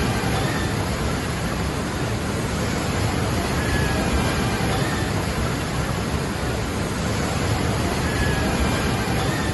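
A waterfall: a steady, unbroken rush of falling water, with a faint short high tone about every four seconds.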